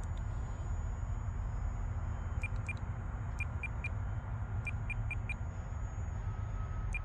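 RC transmitter trim-button beeps: about ten short, same-pitched beeps in small quick clusters as the plane is trimmed to fly straight. Under them runs a steady low rumble and a faint high steady whine.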